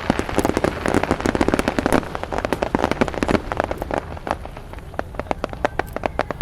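Fireworks crackling: a dense, rapid crackle of many small pops that thins out to scattered separate pops over the last couple of seconds.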